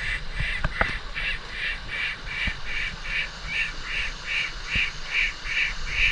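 An animal calling over and over in an even rhythm, about two and a half short calls a second, with a few sharp knocks near the start.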